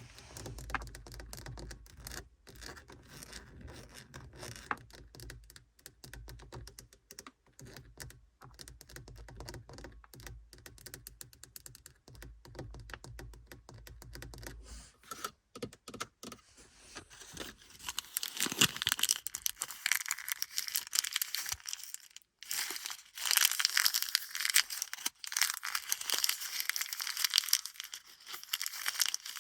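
Quick, dense tapping and light scratching on car interior surfaces over a low hum, turning about halfway through into louder, rougher scratching.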